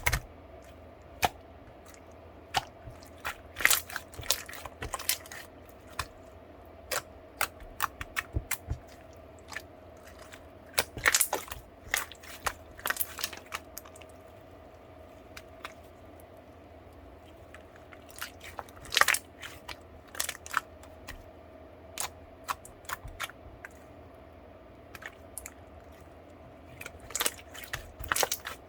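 Soothing-gel slime being squeezed and pressed by hand, giving irregular sharp pops and clicks, some single and some in quick clusters. A faint steady hum runs underneath.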